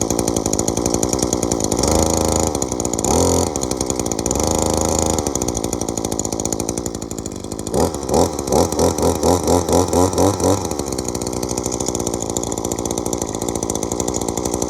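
Shindaiwa M262 two-stroke string trimmer running just after a cold start. It is revved up a few times, and in the middle the throttle is blipped in quick pulses, about four a second. A rattle comes from a loose heat shield.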